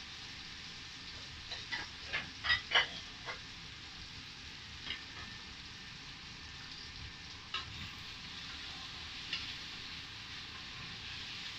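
Chicken and sausage strips frying with a steady sizzle in a stainless steel wok. A cluster of sharp clicks and taps comes about two to three seconds in, and a few single clicks follow, as the food is stirred with a wooden spatula near the end.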